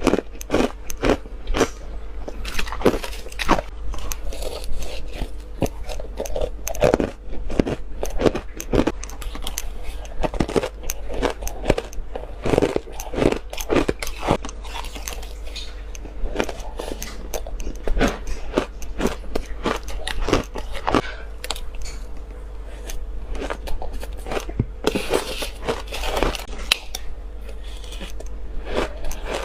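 Close-up crunching bites of shaved ice, taken in spoonfuls and chewed, with sharp crunches coming about once or twice a second.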